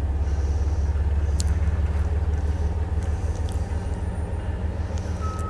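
Engine idling: a steady low rumble. A short high beep sounds right at the end.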